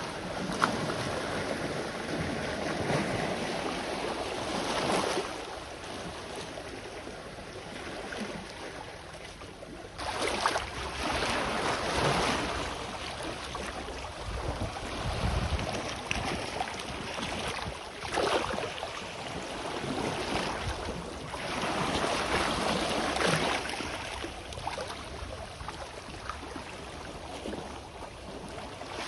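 Small sea waves washing onto the shore, the surf swelling and falling back every few seconds, with a brief low gust of wind on the microphone about halfway through.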